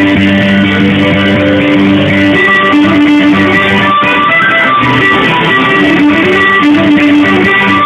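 Live band music led by guitar, with sustained notes and a steady, full sound.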